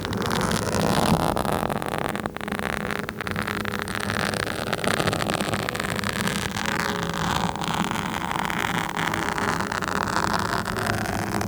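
A microphone being scratched directly: dense, continuous scratchy noise made of many small rapid clicks, with a low hum underneath.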